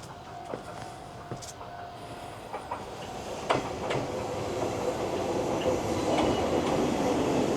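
Ohmi Railway train running on the rails, its noise growing steadily louder through the second half, with a few sharp clicks.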